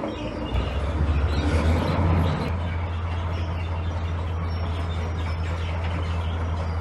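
Heavy diesel earthmoving machinery running, with a steady low engine drone. It is louder and rougher with clatter for the first couple of seconds, then settles to an even drone.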